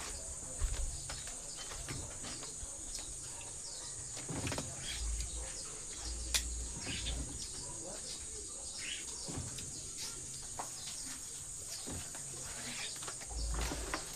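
Outdoor ambience: a steady high-pitched insect drone, with scattered light clicks and knocks and a few brief low rumbles.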